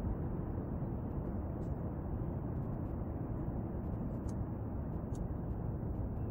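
Steady low rumbling background noise picked up by a compact camera's built-in microphone, with a few faint clicks a couple of times.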